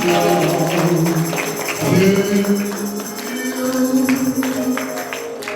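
Gospel music: a tambourine jingling over long held notes.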